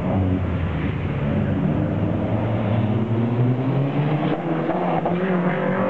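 Toyota MR2's engine accelerating hard through a gear, its pitch rising steadily for several seconds, then dropping suddenly near the end.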